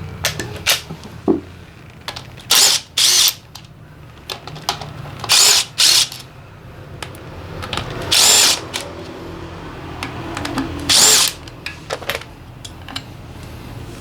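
Handheld power tool running in six short bursts, mostly in pairs, with small metallic clicks of tools and parts between them, as fasteners are run out during the teardown of a Honda PCX 125 scooter engine.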